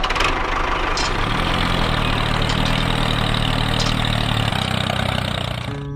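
A motor running steadily with a low hum, cutting off suddenly near the end.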